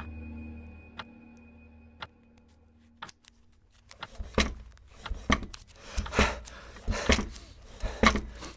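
Ambient music fading out, with a clock ticking once a second. From about four seconds in, a run of irregular soft knocks and thumps from the puppets moving on the stage bed.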